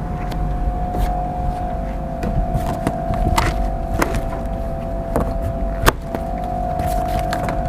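A steady machine hum with two constant tones over a low rumble, broken by scattered light clicks and knocks.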